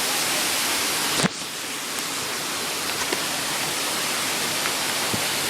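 Very heavy rain pouring down in a steady, even hiss. About a second in there is a brief click.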